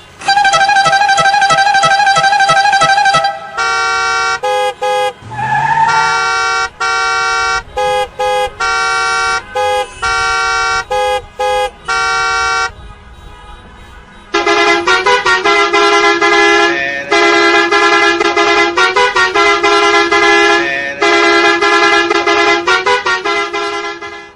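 A run of cartoon vehicle horn honks. A warbling horn sounds for about three seconds, then a string of short toots of varying length, with a rising slide among them. After a brief pause comes a long stretch of quick, stuttering honks.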